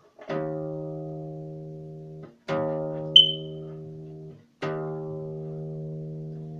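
Acoustic guitar playing three chords about two seconds apart, each struck once and left to ring and fade. A short, sharp high ping about three seconds in.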